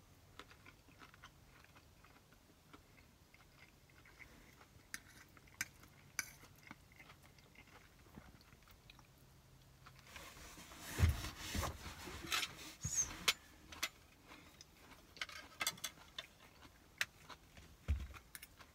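Close-up chewing and small clicks of a fork against a dish as a person eats stir fry with a fork: faint at first, busier from about halfway, with a couple of dull thumps.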